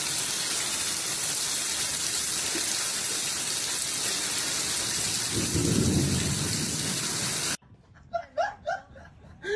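Steady loud rushing hiss, with a low rumble swelling about five and a half seconds in; it cuts off abruptly near the end.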